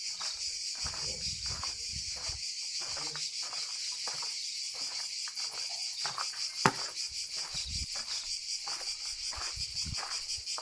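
Steady, finely pulsing chorus of insects buzzing, with footsteps on pavement about twice a second. One sharp click about two-thirds of the way through.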